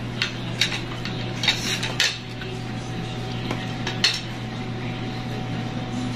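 Tableware clinking during a meal: about five sharp knocks of utensils against dishes, the loudest about four seconds in, over a steady low hum.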